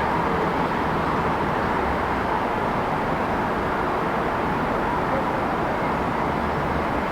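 Steady city street ambience: a continuous wash of traffic noise with a low rumble underneath and no single event standing out.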